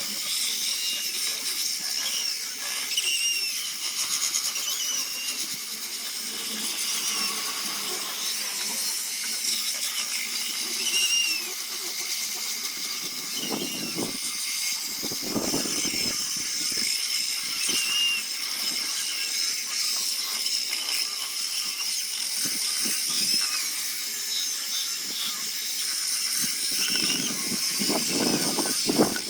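Steady high-pitched hissing whine of a high-speed power tool, with brief pitch dips through it and a few dull knocks about halfway through and near the end.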